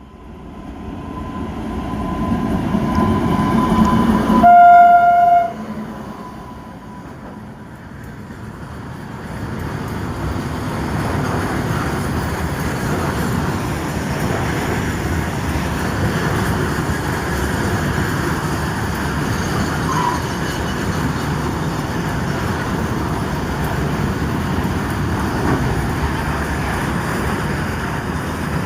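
WAG-9 electric locomotive approaching with a rising rumble and sounding one short horn blast about four seconds in, then a loaded coal train's freight wagons rolling past with a steady rumble and clatter.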